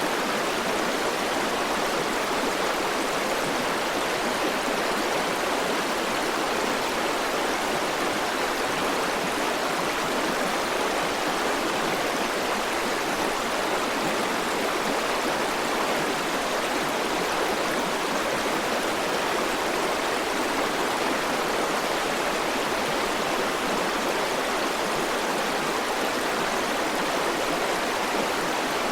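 River water flowing steadily over rocks, a continuous rushing and babbling with no change in level.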